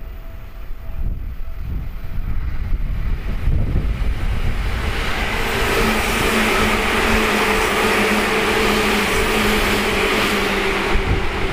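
Seibu 2000 series electric commuter train passing at speed without stopping: a low rumble builds, then from about five seconds in a loud, steady rush of wheels on rail with a steady low hum.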